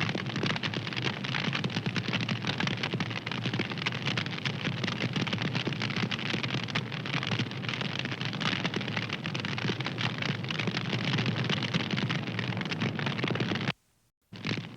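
Wood fire crackling: dense, steady small pops and snaps over a soft hiss. About a second before the end it cuts out to near silence for half a second, then resumes.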